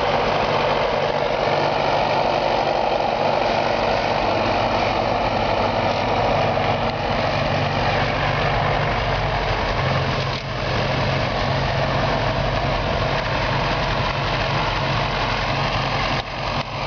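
1951 Farmall M tractor's four-cylinder engine running at a low, steady speed, with a brief dip in level about ten seconds in.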